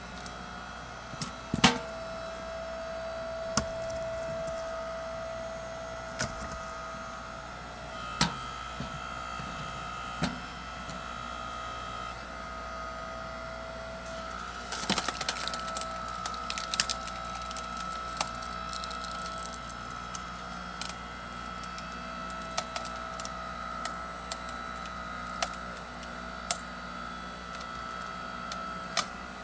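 Engine-driven hydraulic log splitter running with a steady whine while wood cracks and splits under it. The sharp cracks come every few seconds, the loudest about two seconds in, with a burst of splintering crackle about halfway through.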